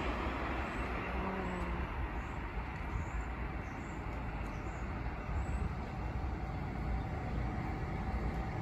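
Passenger train rumbling on the tracks in a steady, low rumble with a faint steady hum above it. A louder passage has just died down before it.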